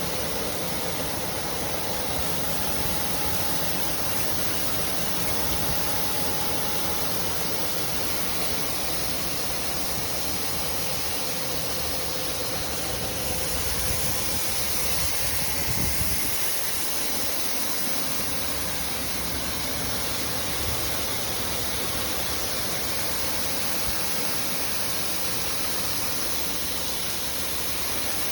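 Wheat cleaning and washing machinery running: a steady, unbroken rushing noise with a strong hiss.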